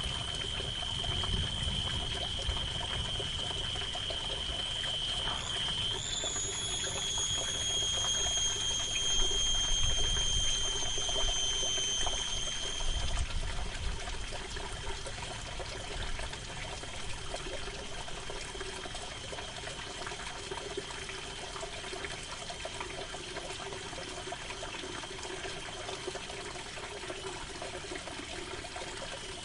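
Steady rain falling on tent canvas, with low rolls of distant thunder swelling in the first few seconds and again around ten seconds in. A thin high tone, joined by a second, higher one about six seconds in, holds until about thirteen seconds in and then stops.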